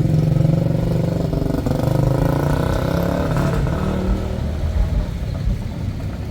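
A motor vehicle engine running steadily, its pitch rising and then falling about midway.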